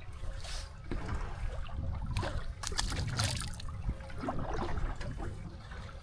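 Water lapping and splashing against the hull of a small drifting boat, in irregular surges that are loudest about halfway through, over a steady low rumble.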